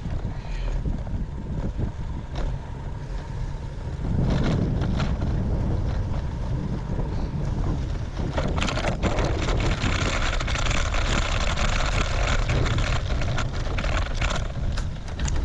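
Strong wind buffeting the microphone of a bicycle ride into a headwind: a heavy low rumble that grows louder about four seconds in, with a rushing hiss joining from about eight seconds.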